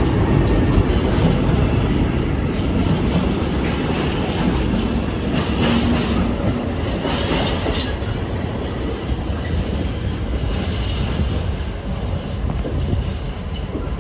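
Train running past on the rails, a loud, steady rumble with the wheels clicking over rail joints, most thickly in the middle, then slowly easing off.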